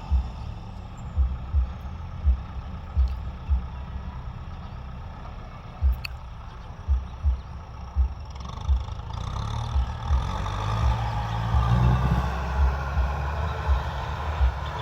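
Kubota M6040 tractor's diesel engine running steadily while working a field, rising in pitch about ten seconds in. Repeated low thumps come through at irregular intervals.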